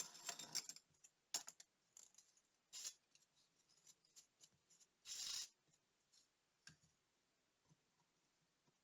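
Tiny clicks and short scrapes of small tools and parts being handled on a work surface during watch disassembly. The longest scrape comes about five seconds in.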